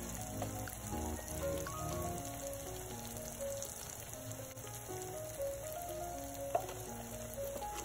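Chopped onion, yam and tomato sizzling steadily in oil in a clay pot, under background music with a melody of short notes. There is one sharp knock about six and a half seconds in.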